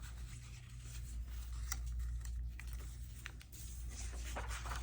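Paper being handled and positioned: a few faint light rustles and taps over a steady low hum.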